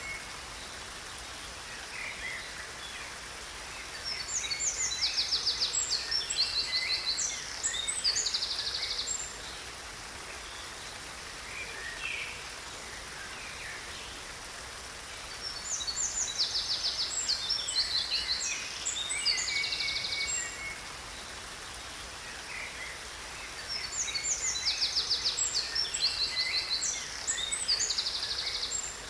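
A songbird sings three long phrases of rapid trills and chirps, each lasting about five seconds, over the steady rush of a waterfall.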